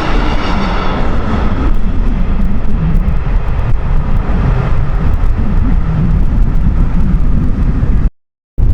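A passing train's steady hum fading away in the first two seconds, then heavy wind rumbling on the microphone. The sound drops out briefly near the end at an edit cut.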